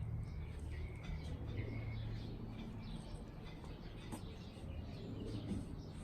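Faint bird chirps over a low steady hum, the chirps clearest in the first couple of seconds.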